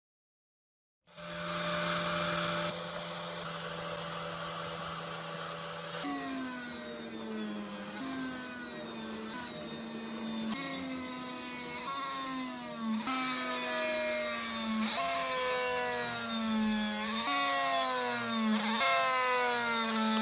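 Electric power tool motor running steadily, then repeatedly bogging down in pitch and recovering, about every one and a half to two seconds, as it is pressed into work on a metal part.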